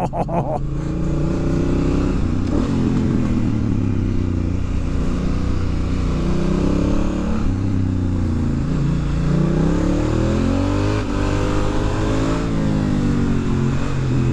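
2019 Honda Africa Twin's parallel-twin engine pulling hard under acceleration. Its pitch climbs and drops back again and again as it runs up through the gears.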